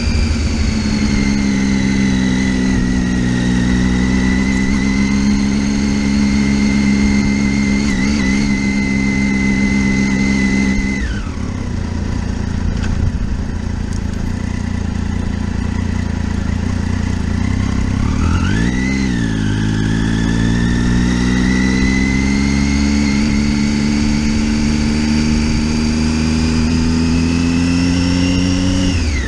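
Motorcycle engine heard while riding, holding a steady note, then easing off about a third of the way in. Near the middle it gives a quick rev up and down, then climbs slowly in pitch as it accelerates, and drops off sharply at the end.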